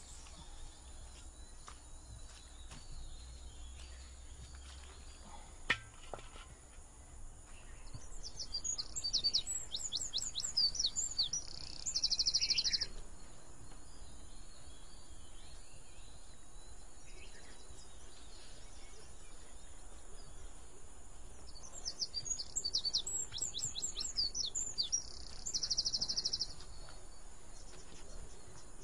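Bird song: a run of quick sweeping high notes ending in a buzzy trill, heard twice, about a quarter and three quarters of the way through, over a steady high insect drone. A single sharp click about six seconds in.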